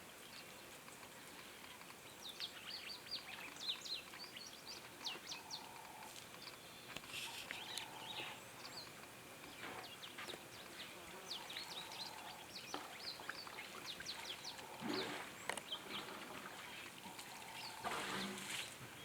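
Birds chirping and calling over outdoor ambience, many quick high chirps and some lower repeated notes, with a few short bursts of noise.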